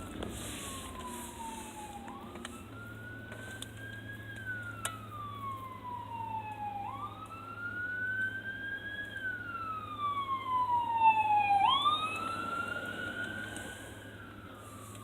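Emergency vehicle siren on a wail cycle: each cycle rises quickly, then falls slowly over a few seconds, repeating about every five seconds. It grows louder toward a peak about three-quarters of the way through, then fades slightly as the apparatus responds to a call.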